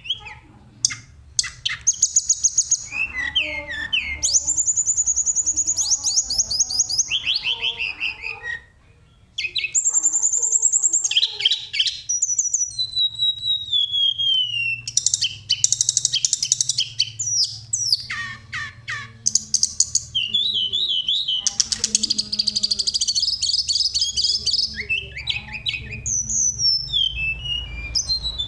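A tledekan songbird in full song: a long, varied run of fast rolling trills, high rattles and falling flute-like whistles, with only a brief pause near the one-third mark.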